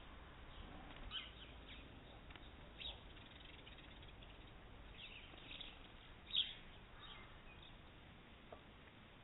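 Faint, scattered short chirps of small garden birds over a steady low hiss, the loudest call about six seconds in.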